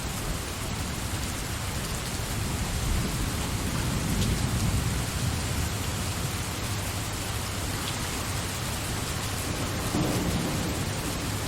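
Steady, dense rainfall with low rolling thunder rumbling underneath, the rumble swelling about four seconds in and again near the end.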